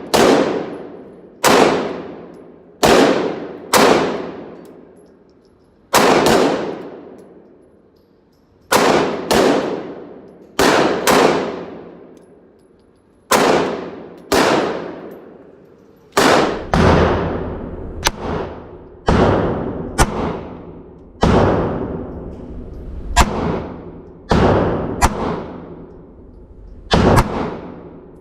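9mm pistol shots fired one at a time at an irregular pace, about two dozen in all, each followed by a long echoing decay. In the second half the shots come closer together, with some fainter shots mixed in.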